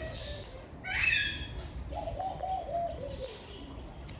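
Laughing dove cooing: a run of about six short, low notes, gently falling in pitch, about two seconds in. A brief higher bird chirp comes about a second in.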